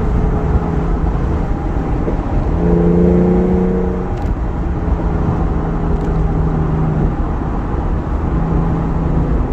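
A 2011 Lexus IS350 AWD's V6 running steadily through an aftermarket exhaust (Lexus F-Sport axle-back, Vibrant resonator, Flowmaster high-flow secondary cats) while driving, over a low rumble of road and tyre noise. About three seconds in, the engine note swells louder and slightly higher for a moment, then settles back.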